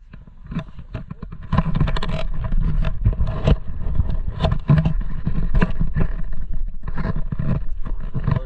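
Snowboard edges scraping and chattering over icy, hard-packed snow, in irregular rough strokes over a low rumble. It gets louder about a second and a half in.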